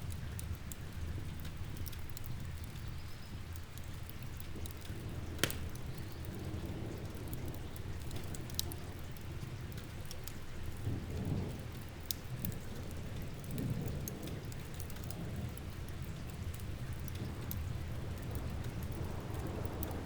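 Steady rain and low rolling thunder, with a wood fire crackling in sharp pops, the loudest pop about five seconds in. Thunder swells twice in the second half of the stretch.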